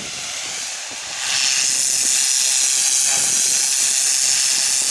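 High-pressure jet wash spraying a hauled-out sailboat's fouled hull: a loud, steady hiss that swells up about a second in and holds.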